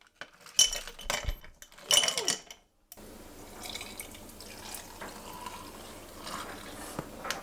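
Ice cubes clinking and clattering into a glass, followed by a steadier sound of liquid being poured in: oat milk topping an iced espresso.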